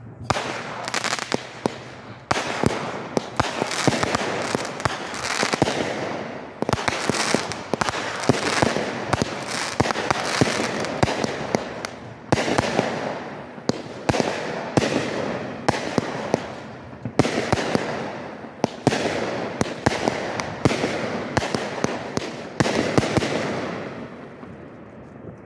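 Consumer aerial fireworks firing in rapid succession: a continuous stream of launches, bangs and dense crackling bursts, in repeated waves, dying away near the end.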